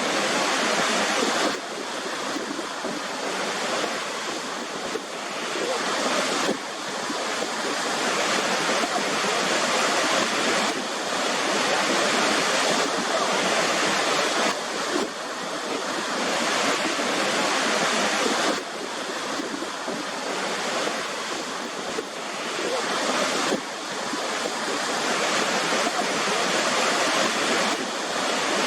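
Waterfall: a steady, dense rush of falling water whose level and tone shift abruptly several times.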